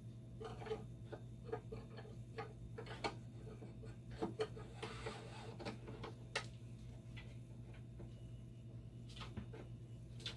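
Irregular small clicks and taps of parts and connectors being handled and fitted inside a dialysis machine, over a steady low hum.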